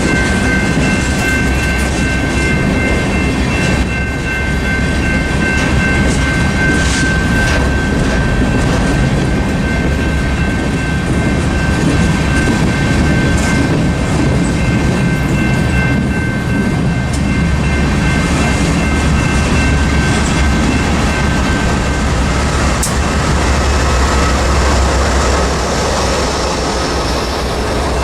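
Train rolling past: a loud steady rumble and wheel clatter of railcars going by on the track, with a thin, high, steady ringing tone through the first half that fades later.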